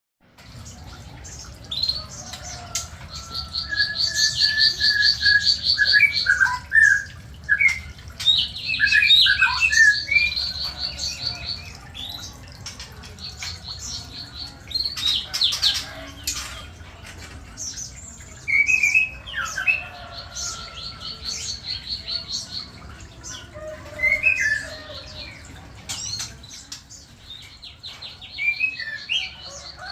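Aviary birds calling: rapid, high, buzzy trills of about two seconds each, repeated every few seconds, mixed with short chirps and squawks, over a steady low rumble.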